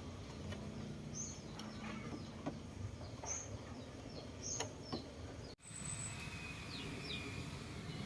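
Birds chirping in short, falling calls over a low steady background hum, with a few sharp clicks; the sound drops out for a moment about five and a half seconds in.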